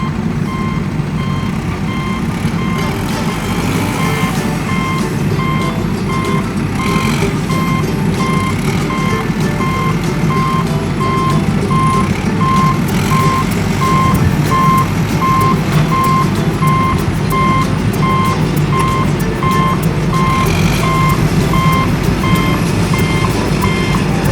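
A vehicle's reversing alarm beeping steadily, a little faster than once a second, over the steady rumble of a running engine.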